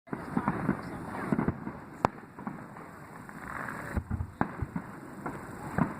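Fireworks going off: a string of pops and crackles, with a sharp bang about two seconds in and more bangs around four seconds.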